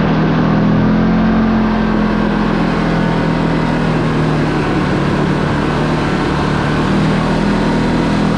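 Side-by-side UTV engine running at a steady pitch while driving, over a steady rush of noise.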